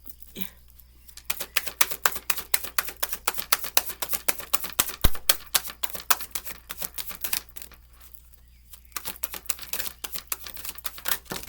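Tarot cards being shuffled by hand: a rapid run of crisp card clicks and slaps lasting about six seconds, a short pause, then a shorter run near the end.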